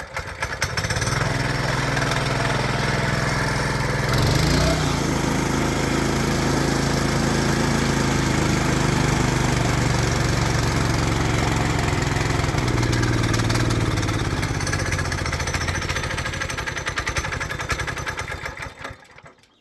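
An engine running hard and steady, the revs rising briefly about four seconds in, then dying away near the end.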